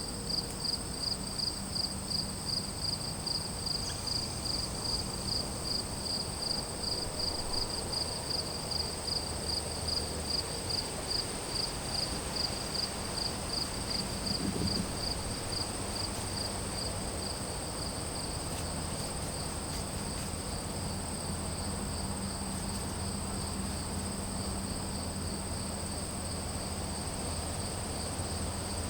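Crickets and other insects calling. One chirps in a steady pulse about twice a second, louder in the first half, while another trills continuously at a higher pitch, over a faint low hum.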